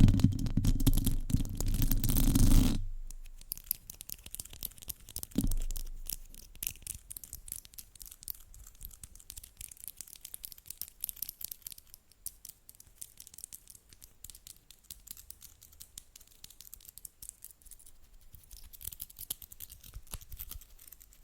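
Scratching and rubbing directly on a microphone. It is loud, with a low rumble, for the first few seconds, then drops to a light, fine crackling scratch, with one soft thump about five seconds in.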